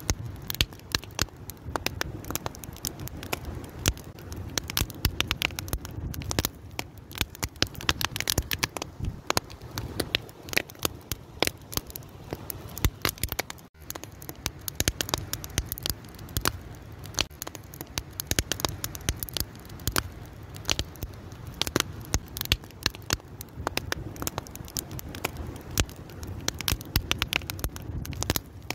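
Wood fire crackling and popping: dense irregular snaps over a steady low rumble of the flames, with a momentary drop-out about halfway through.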